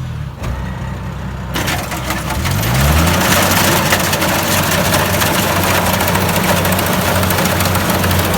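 Kubota DC-70 Plus rice combine harvester's diesel engine running; its pitch sits low at first, climbs back up about two to three seconds in, then holds steady under load. A loud, even mechanical rush starts suddenly about a second and a half in and carries on with the engine.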